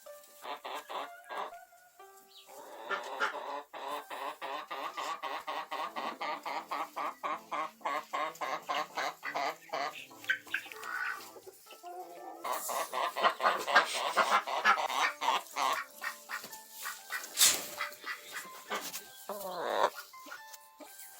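Farm poultry calling in long runs of rapid, evenly repeated calls, with a few louder calls near the end, over background music.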